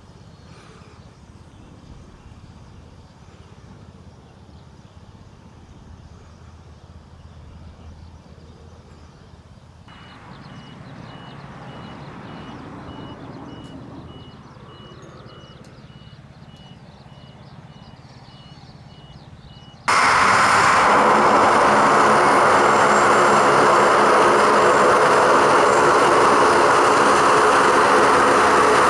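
Quiet outdoor background at first, with a faint steady high tone joining about ten seconds in. About twenty seconds in, it cuts suddenly to loud, close military aircraft engines running steadily, with a strong engine hum.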